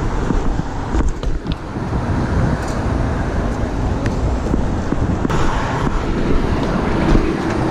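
City street traffic noise: a steady mix of passing vehicles and road noise with a low rumble and a few short clicks.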